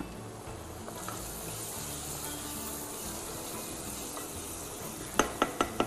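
Tomato paste sizzling steadily as it fries and is stirred in a small pot over raised heat, cooking until it darkens. Near the end comes a quick run of about five sharp clacks of the wooden spoon against the pot.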